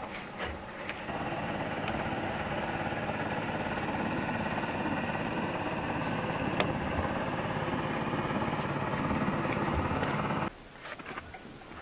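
An engine running steadily, then cutting off abruptly near the end.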